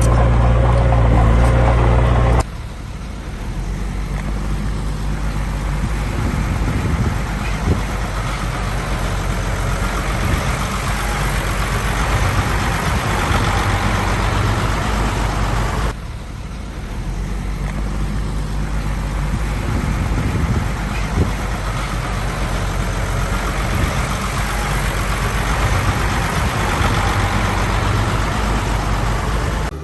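Heavy truck engines running and labouring, in three back-to-back clips with abrupt cuts a couple of seconds in and about halfway through. Each clip has a steady, rough low rumble.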